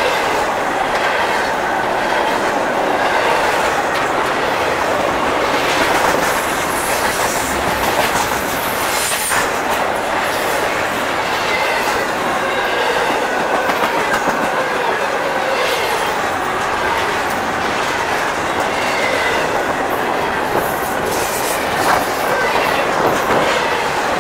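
Double-stack intermodal freight train's well cars rolling past close by: a steady, loud rumble and clatter of steel wheels on the rails, with faint wavering squeal from the wheels at times.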